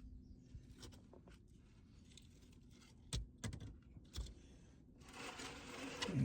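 A few scattered knocks, then about a second of scraping and rustling near the end, which finishes in a short, falling low sound, the loudest moment.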